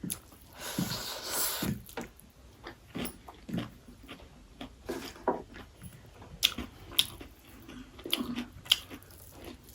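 Close-up mouth sounds of eating chicken biryani: chewing and biting, with scattered small clicks and a brief rustling noise about a second in.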